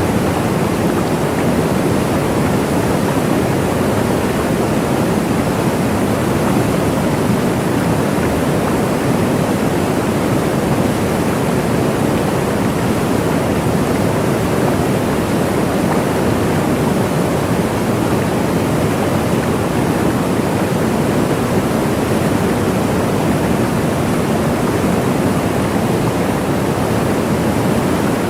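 Waterfall: a steady, unbroken rush of falling water, strongest in the low and middle range.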